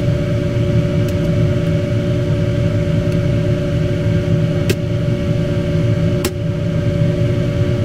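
A steady machine hum with two short sharp clicks, the second about a second and a half after the first.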